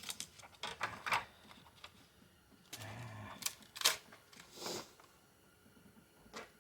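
Metal clicks, taps and short scrapes of hand tools and parts on a 4L60E transmission being worked apart, as a stuck part that is cooked on is pried loose. The sharpest clicks come in the middle, with a single click near the end.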